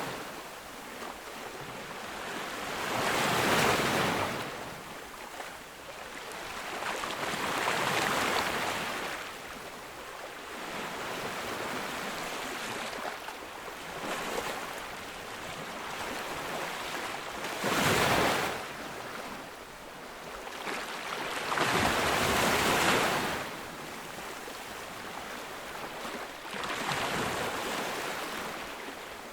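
Ocean waves breaking on a beach. Surges of surf come every four to five seconds, with the heaviest breaks about 18 and 22 seconds in, over a steady wash of foam.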